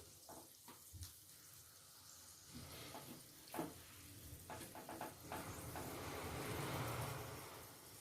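Marinated chicken pieces being set into a steamer over hot water, with a few light knocks of handling. A soft hiss of steam or bubbling water swells and fades near the end.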